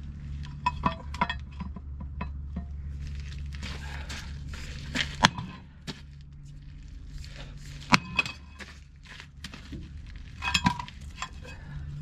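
Scattered metallic clinks and clanks of tools and steel parts knocking together on the loader as it is worked on, with ringing after the sharper hits and the two loudest about five and eight seconds in. A steady low hum runs underneath.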